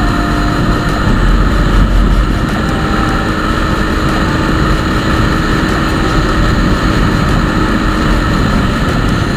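Motorcycle on the move: steady wind rush on the microphone over the running engine.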